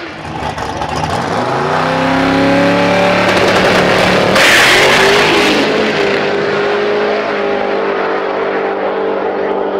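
Twin-turbo big-block V8 drag car accelerating, its engine note climbing in pitch over a couple of seconds. A burst of hiss comes about four and a half seconds in, then a steady engine note.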